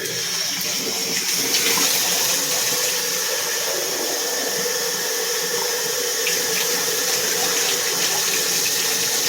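Tap water running steadily in a bath, rinsing a dog.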